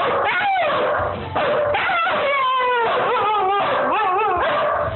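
Husky vocalizing on the command to speak: a string of wavering howl-like whines that glide up and down in pitch, one call running into the next.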